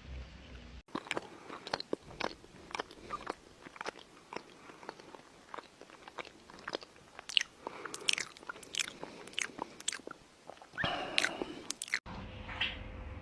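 Close-up crunching and chewing on something crunchy: irregular sharp crunches several times a second, coming thicker and louder near the end.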